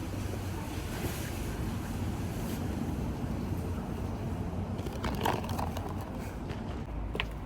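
Steady low rumbling background noise, with a few short clicks and taps about five seconds in and again near the end.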